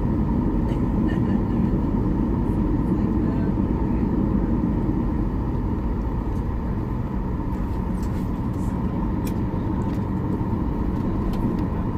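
Jet airliner cabin noise heard from inside the cabin: a steady low rumble of engines and airflow with a faint constant hum.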